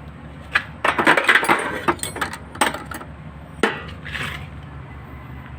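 Metal clinks and knocks of hand tools and parts being handled, with a quick cluster of sharp strikes about a second in and a few single knocks after, over a steady low hum.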